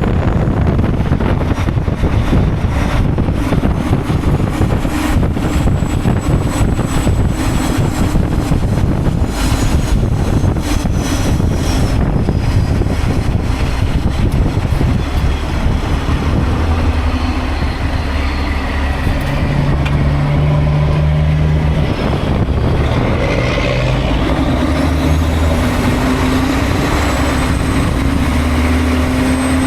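Semi truck running with a steady low engine drone and road noise. About halfway through, a steadier engine hum comes to the fore.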